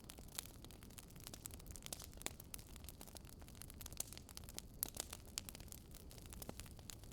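Faint wood fire crackling: irregular sharp pops and snaps, several a second, over a low steady rumble.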